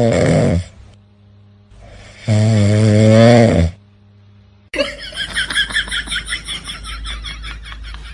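A pet snoring loudly: two long, low, drawn-out snores about two seconds apart. Then, about two-thirds of the way through, a quieter run of quick, repeated high chirps begins.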